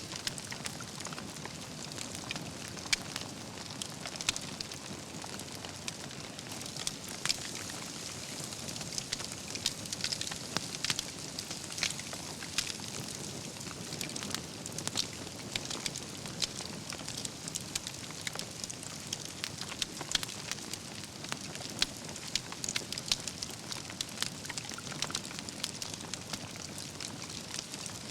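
Wood campfire burning steadily: logs crackling with a constant soft hiss and frequent sharp pops and snaps, a few of them louder.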